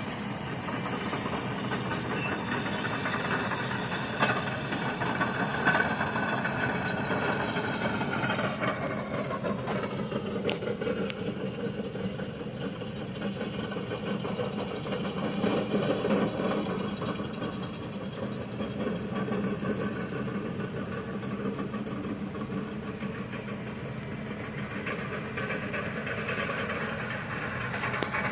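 Heavy diesel earthmoving machines (dirt pans and off-road haul trucks) running steadily, with an engine's pitch dropping about eight to ten seconds in.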